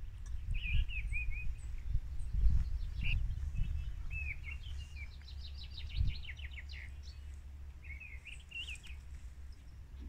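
Small songbirds chirping and calling, with a quick trill of rapidly repeated notes from about five to seven seconds in. Under them runs a low rumble, with a few dull thumps; the loudest come about two and a half and six seconds in.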